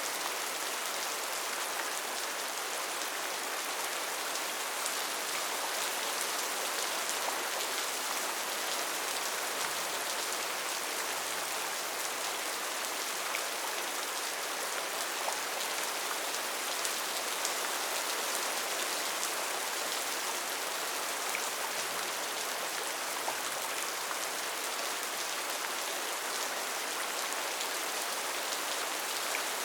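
Steady rainfall, with many small drops pattering on surfaces and no let-up or change.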